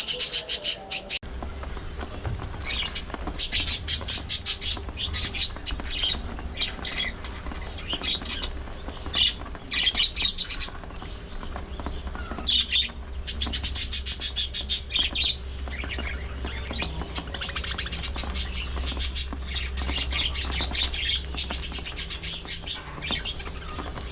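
A flock of budgerigars chattering: many rapid, overlapping chirps and squawks in busy bursts, with a steady low hum underneath from about a second in.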